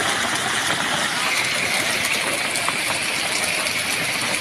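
Heavy rain with hail coming down, a steady dense hiss of drops and stones striking.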